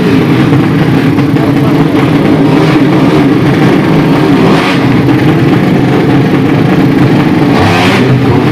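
Drag-racing motorcycle engines revving loudly, several at once, their pitch rising and falling.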